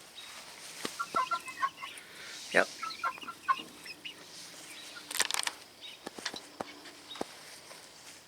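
Young Black Sex Link chickens making short, high calls in the first few seconds, with scattered sharp taps and a brief rustle about five seconds in.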